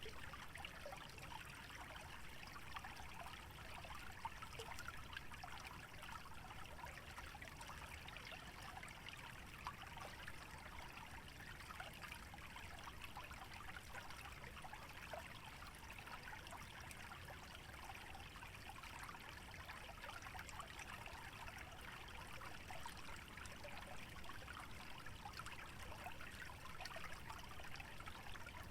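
Small stream trickling through a wetland, a steady soft babble of water with small splashes throughout.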